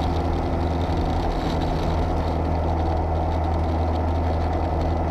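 Light bush plane's piston engine and propeller running at a steady speed.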